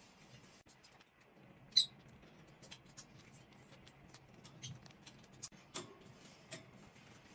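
Light taps, clicks and rustles of paper and stationery being handled on a desk, with one sharper, louder click about two seconds in.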